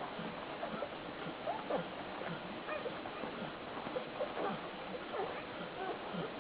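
Newborn puppies squeaking and whimpering while they nurse on their mother, with many short high squeaks scattered throughout.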